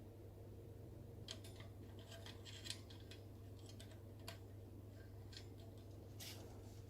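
Faint, irregular clicks and scratchy scrapes of a parrot handling a toy with its beak, clustered between about one and three seconds in, then single clicks near four and six seconds.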